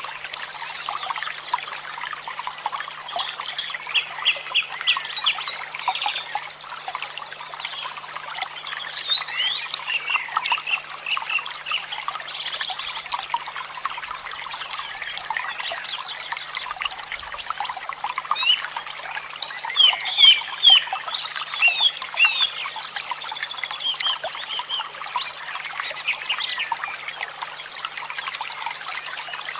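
Running water trickling steadily, with wild birds chirping over it in quick runs of short notes and whistles, loudest about twenty seconds in.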